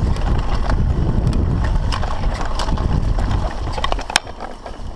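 Mountain bike descending a rough trail: wind buffeting the camera microphone over the rumble of tyres on dirt, with sharp rattles and knocks from the bike. The rumble eases about four seconds in.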